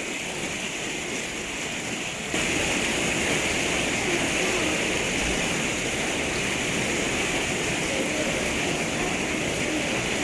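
Torrential rain pouring steadily, a dense rushing hiss that turns abruptly louder about two seconds in.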